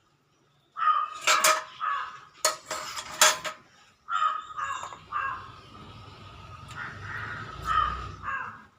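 Loud, harsh bird calls: a burst of rough cries with sharp cracks starting about a second in, then a second, longer run of calls from about four seconds in.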